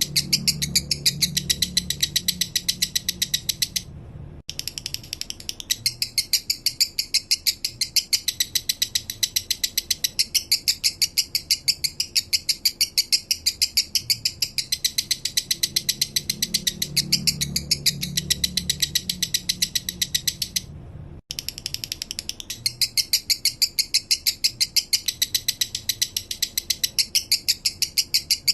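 Male lovebird singing a long, rapid chattering trill of high chirps, about ten a second, the slow 'minor' song style kept for tutoring other birds. It breaks off briefly twice.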